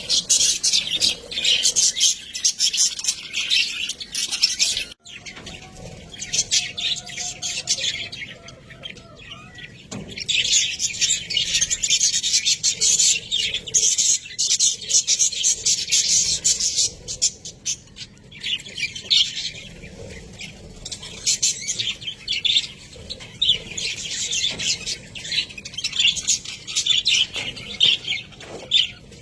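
Budgerigars chattering and warbling, a dense run of rapid chirps and clicks with brief lulls, loudest in the middle and later parts.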